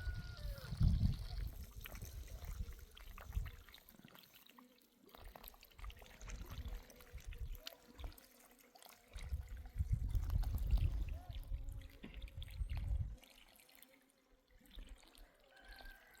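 Water trickling and pouring, with bouts of low rumble about a second in and again from about nine to thirteen seconds.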